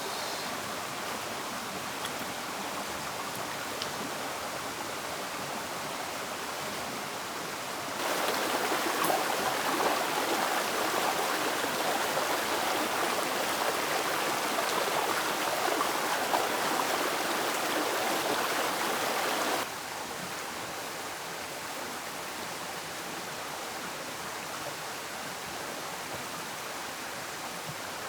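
Steady rushing noise like flowing water. It jumps abruptly louder about eight seconds in and drops back just as abruptly about twelve seconds later.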